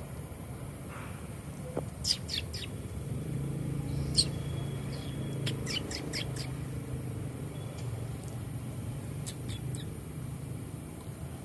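A bird's short, high chirps that sweep downward, coming in small clusters of two to five, over a low steady hum that fades in about three seconds in and out again near the end.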